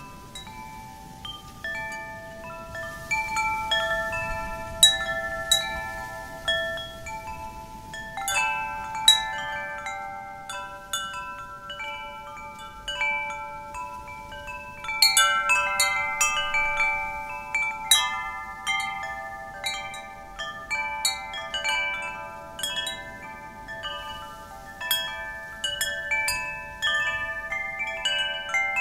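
Wind chimes ringing irregularly as the wind strikes them, many overlapping tones sounding and dying away, with clusters of strikes growing busier partway through. A faint low rush of wind lies underneath.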